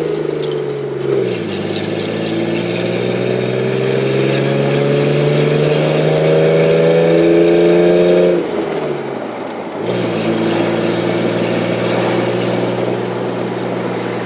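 Exhaust note of a Ford 4.0 SOHC V6 through a 2.5 inch Y-pipe and a Nexus muffler. The engine's pitch dips briefly, climbs steadily for about seven seconds, drops sharply, then holds steady to the end.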